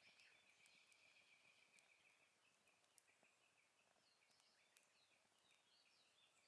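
Faint outdoor birdsong: a steady high trill that breaks into rapid chirps partway through, with higher chirps over it, and a couple of faint pops from the campfire.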